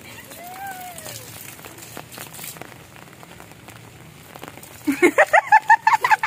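Rain pattering steadily, with many small drop ticks, and a short rising-then-falling call about half a second in. Near the end a loud, quick run of high repeated calls breaks in.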